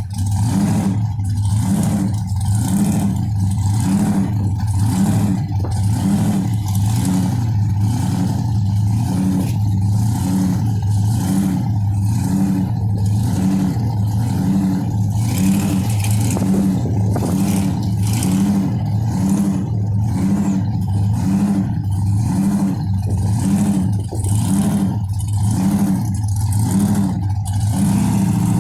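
Car engine running steadily under load, its low drone swelling and fading in an even pulse a little faster than once a second.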